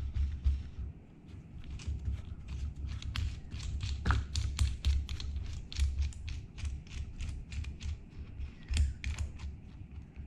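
Rapid, irregular light clicks and taps, several a second, with low thumps underneath: a small steel machinist jack being handled and adjusted.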